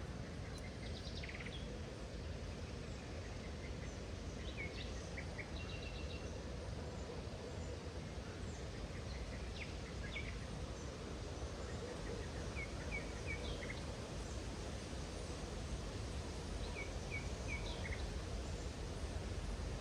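Small birds giving short, scattered chirps, some in quick runs of three, over a steady low background noise.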